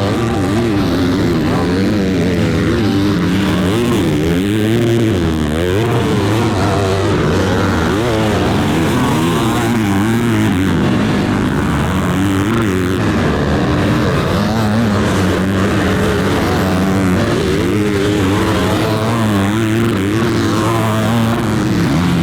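Several motocross dirt bikes riding, their engines revving up and down and overlapping throughout.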